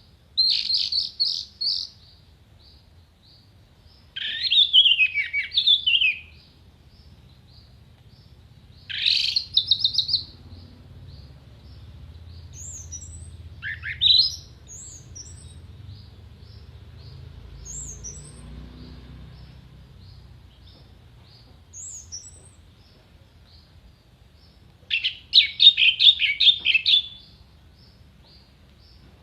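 Orange-headed thrush singing: loud bursts of rapid, sharp, clear phrases separated by pauses of several seconds, over a faint even ticking of short high notes about two a second. A few brief high calls come in the middle.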